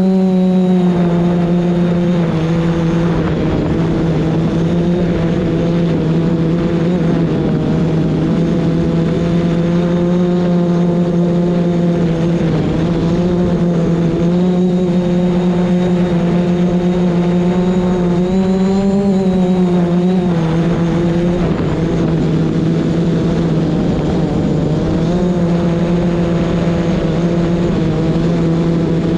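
DJI Mavic Pro quadcopter's propellers humming steadily, a low buzz whose pitch wavers slightly up and down as the motors hold against strong wind, with wind noise rushing underneath.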